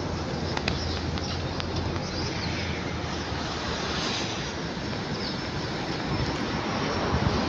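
Jet noise from a Boeing 777-300ER airliner's GE90 engines: a steady, even rushing sound with no clear whine.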